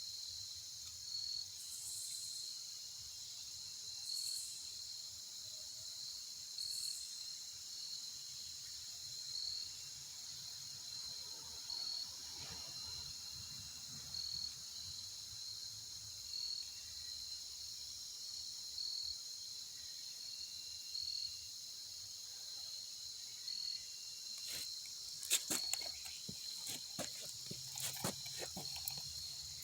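Insects, crickets or katydids, trilling in a steady high chorus with a regular chirp about once a second. A few sharp clicks and knocks come near the end.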